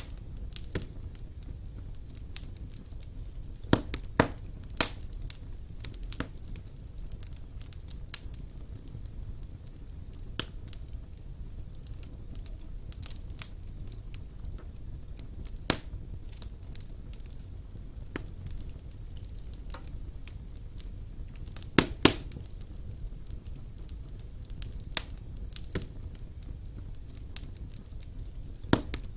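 Wood fire burning in a fireplace: a steady low rumble of the flames with irregular sharp crackles and pops from the burning logs, a few louder pops about four seconds in and again past the twenty-second mark.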